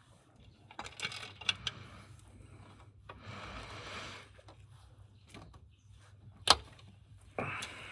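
Tools and car parts being handled during repair work: scattered clicks, a scraping rustle, and one sharp knock about six and a half seconds in.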